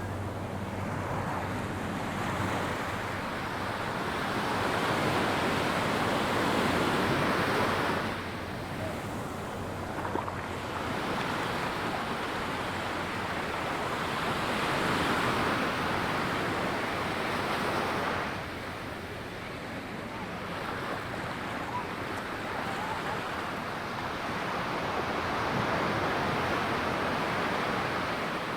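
Ocean surf washing up a sandy beach: a steady hiss of breaking waves that swells and falls back, with two loud swells that drop away suddenly and a third building near the end.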